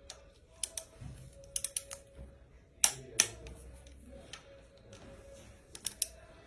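Sharp, irregular clicks and taps of hand tools on bolts as they are fitted and tightened on a Mercedes CDI diesel engine's timing-chain cover, about a dozen in all, the loudest pair about three seconds in.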